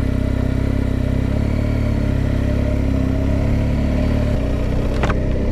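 BMW R1250GS boxer-twin engine running steadily while riding, with a slight change in engine note about four seconds in and one short click about five seconds in.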